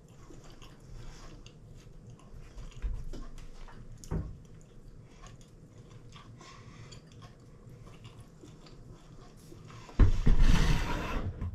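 A person chewing a mouthful of fajita wrap, with faint small mouth clicks and soft noises. A sudden, louder rustling noise comes near the end.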